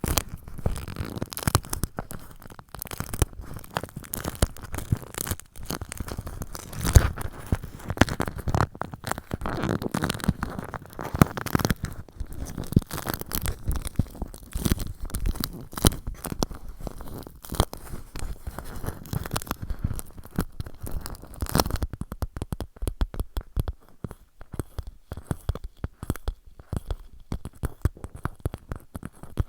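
Fingers tapping and scratching on a clear plastic pouch, a dense crackly patter like popcorn popping. About two-thirds of the way through it turns into a faster, even run of light taps.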